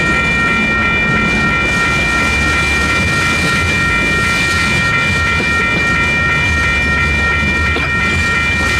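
Tank cars of a freight train rolling through a grade crossing, wheels rumbling and clacking over the rails, while the crossing's WCH electronic bells ring steadily over the train noise.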